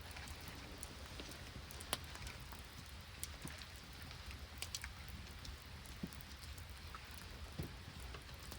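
Rain mixed with wet snow falling in a steady soft patter, with scattered sharp ticks, the sharpest about two seconds in.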